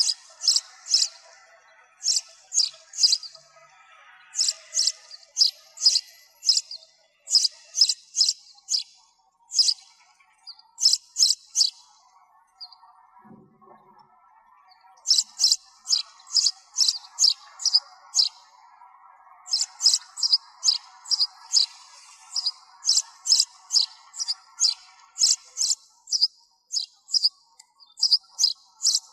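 Sparrows chirping: runs of short, sharp, high chirps, several a second, breaking off for about three seconds near the middle before starting again.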